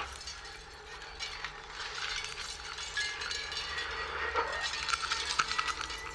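Reconstructed prehistoric instruments playing sparse clicks and rattles, with a faint high whistled tone coming in about halfway.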